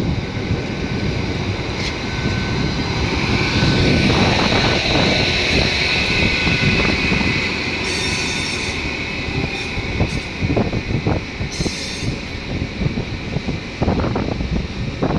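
Hitachi Blues HTR412 Intercity train pulling out of the station, its wheels squealing in a high, steady tone for several seconds over a low rumble from the running gear.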